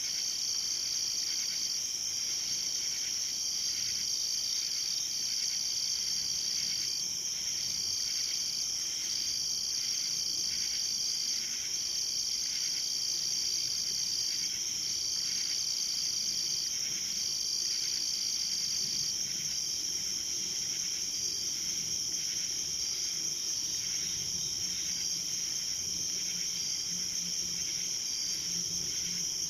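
Chorus of night insects trilling steadily at a high pitch, with a second insect call switching on and off in spells of a second or two and a softer pulsing call repeating beneath them.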